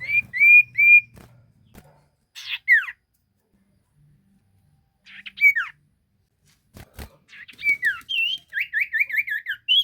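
Sirtu songbird singing loud, clear whistled phrases. It opens with three short rising whistles, then gives single falling slurred notes, and near the end a fast run of about six falling whistles. A couple of sharp clicks come about seven seconds in.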